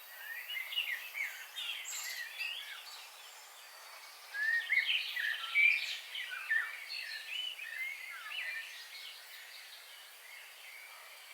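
Several songbirds chirping: quick short notes that rise and fall in pitch, in two bouts, the second louder and busier, over a faint steady hiss.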